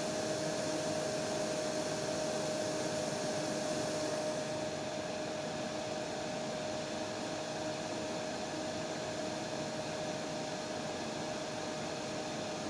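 Hair dryer running steadily, a continuous rushing hiss with a steady hum-like tone through it; the hiss loses a little of its top end about four and a half seconds in.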